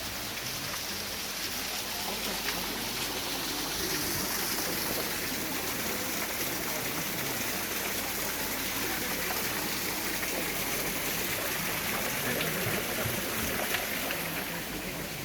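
Steady rushing of water from a small waterfall and stream.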